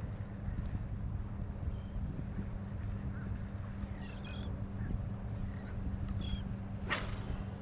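Faint bird calls over a steady low hum, with a loud falling whoosh near the end.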